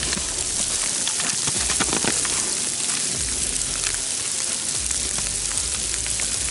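Sleet and rain mix falling and pattering: a steady hiss with many scattered small ticks.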